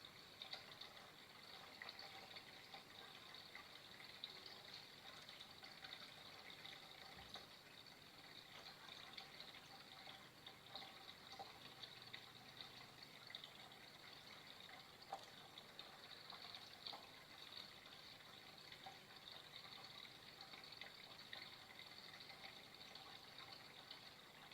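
Faint, steady trickle of flowing water, with small splashes and drips ticking through it.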